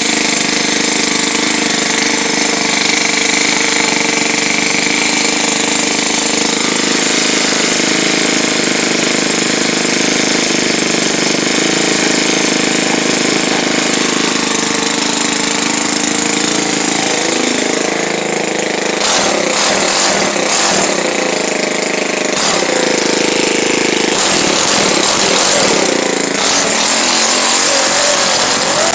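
Straight-piped 4-cycle Ryobi C430 string trimmer engine running loud and open with no muffler. It holds steady for the first half, then its speed wavers up and down in the second half.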